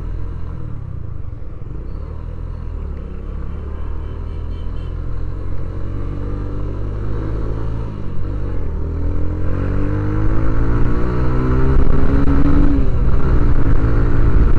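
Yamaha SZ-R motorcycle's single-cylinder four-stroke engine running at steady speed, then accelerating from about eight seconds in, rising in pitch and getting louder.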